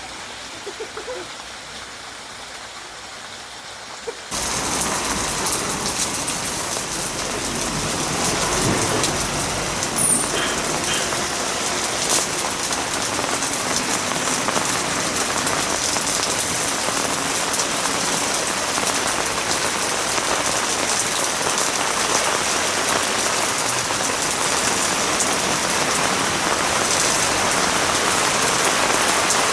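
Heavy rain pouring steadily, cutting in suddenly about four seconds in and growing a little louder. A few sharper drips or drop impacts stand out from the hiss.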